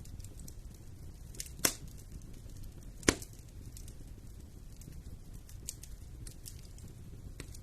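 Wood fire burning in a fireplace with a low steady rumble, scattered small crackles, and two loud sharp pops about a second and a half apart.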